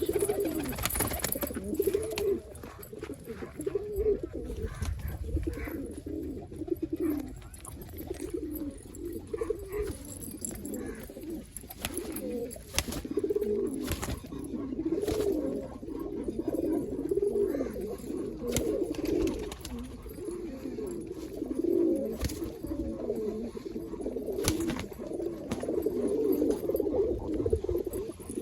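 Several domestic roller pigeons cooing continuously, their low warbling coos overlapping one another, with a few short sharp clicks now and then.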